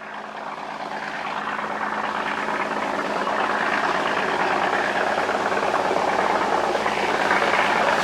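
Dive boat's engine running steadily with a constant low hum, growing louder over the first few seconds and then holding.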